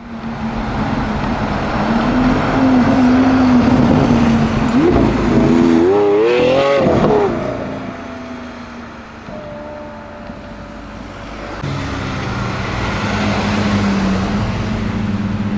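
Lamborghini Aventador S's 6.5-litre naturally aspirated V12 revving up, its pitch climbing and wavering, then dropping away about halfway through. After a quieter spell, a steady engine note builds again near the end.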